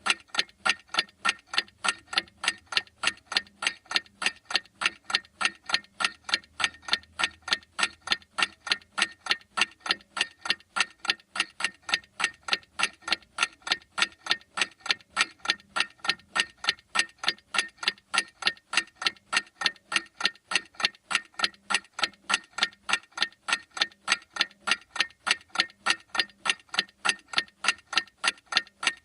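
Clock ticking steadily, with quick, evenly spaced sharp ticks, several a second.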